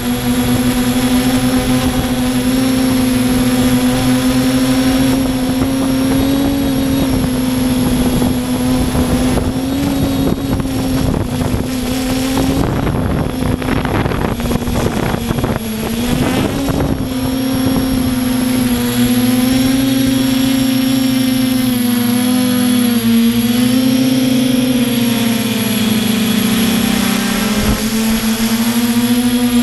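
RC quadcopter's electric motors and propellers humming steadily, the pitch wavering up and down as the motors adjust, with a rougher, noisier stretch about halfway through.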